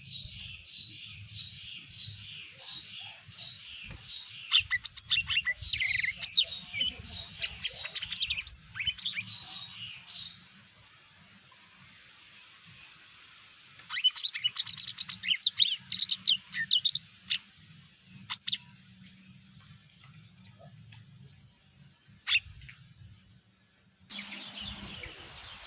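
Cucak ijo (green leafbird) singing: first a run of evenly repeated high notes about two a second, then a loud burst of rapid sharp chirps and trills, a lull, a second rapid burst, and a few single sharp calls near the end.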